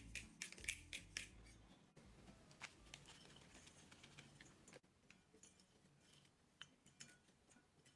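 Near silence: faint music fades out in the first couple of seconds, leaving a few scattered faint clicks and taps.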